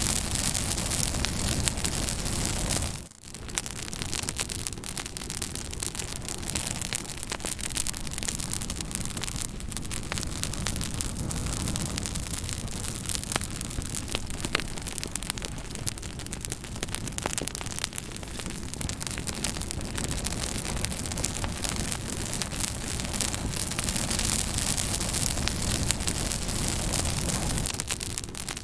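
Fire crackling: a steady hiss dotted with many small sharp pops and snaps, with a brief dip in the sound about three seconds in.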